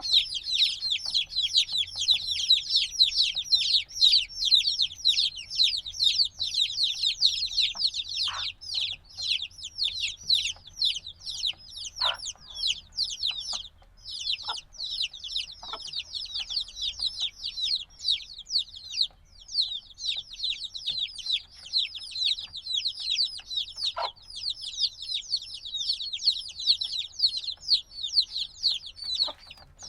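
A brood of chicks a few days old peeping nonstop: many rapid, high, downward-sliding chirps overlapping one another, thinning briefly twice midway.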